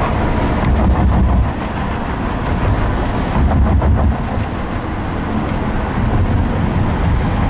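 Steady low road and engine rumble of a moving car, heard from inside the cabin, with a few faint ticks and clacks about half a second in and again around three to four seconds in.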